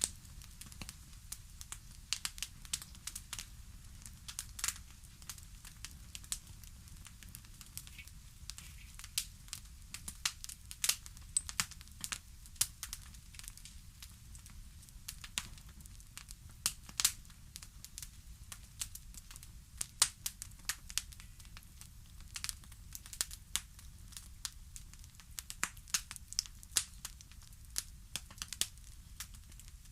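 Fire crackling: irregular sharp pops and snaps, sometimes several in quick succession, over a low steady rumble.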